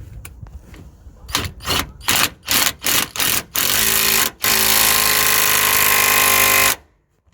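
Cordless impact wrench with an 18 mm socket tightening the nut of a new anti-roll bar drop link on a Toyota Prius. It fires in about six short bursts, then runs continuously for about three seconds and stops suddenly, as the nut is run down to secure the link.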